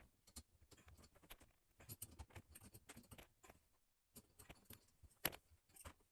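Faint, scattered small clicks and taps with one sharper click about five seconds in: hands handling and screwing on plumbing fittings for a bidet's T joint.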